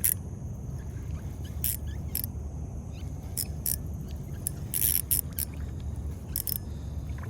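Irregular sharp clicks and taps from fishing tackle as a hooked bass is reeled in and landed, over a steady low rumble.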